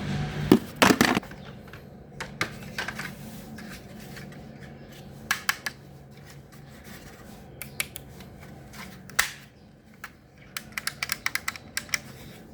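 Small plastic objects being handled, with scattered sharp clicks, taps and scrapes and a quick run of clicks near the end. A small fan motor hum fades out about a second in, just after a few loud clicks.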